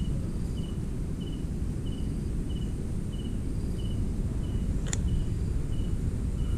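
A cricket chirping in an even rhythm, about three short chirps every two seconds, over a steady low rumble. A single sharp click comes about five seconds in.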